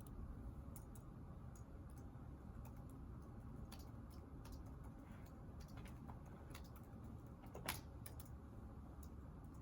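Faint, irregular clicks of typing on a computer keyboard over steady low room noise, with one louder click about three-quarters of the way through.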